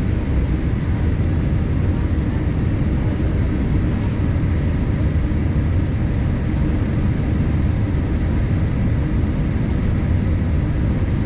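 Steady cabin noise inside a Boeing 787-8 airliner: an even rumble of engines and airflow, heaviest in the low range.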